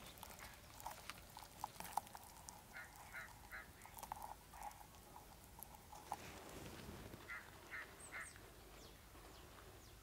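Faint, near-quiet outdoor sound: distant bird calls in two runs of three short notes, about a third of a second apart, a few seconds apart from each other. Scattered soft clicks come from a plastic bottle wind spinner being tied onto an overhead wire with twine.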